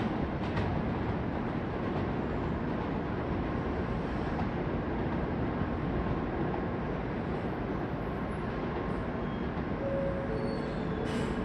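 N700S Shinkansen train running, a steady rumble of rail and running noise.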